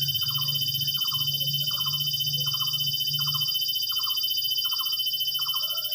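Steady, high-pitched insect trilling, with a short call repeating about twice a second over it. A low hum sits underneath and fades out about halfway through.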